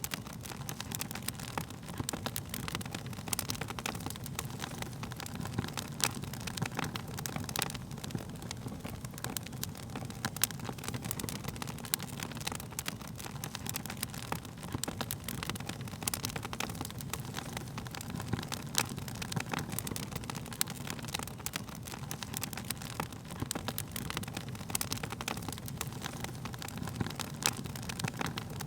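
Wood fire burning steadily, with a low rumble of flame under frequent irregular crackles and pops from the burning wood.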